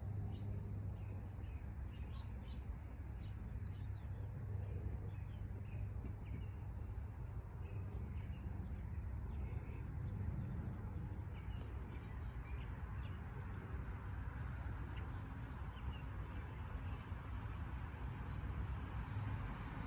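Small birds chirping at a bird feeder: many short, high chirps, coming more often in the second half, over a steady low background hum.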